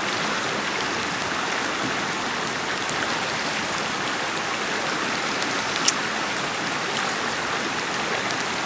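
Steady rushing of water, an even hiss that does not change, with one short sharp click about six seconds in.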